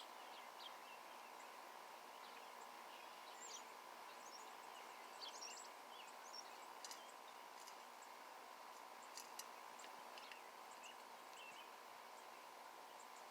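Small songbirds chirping faintly, with short scattered chirps and calls over a steady background hiss and faint hum.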